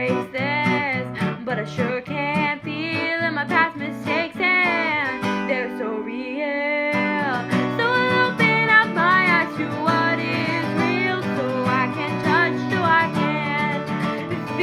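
Acoustic guitar strummed under a sung melody, the voice holding wavering notes. The guitar's low end drops out for about two seconds midway while a note is held.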